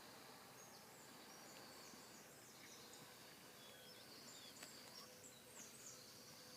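Near silence in the open, with faint birds chirping: short, high, scattered notes over a thin steady high hiss.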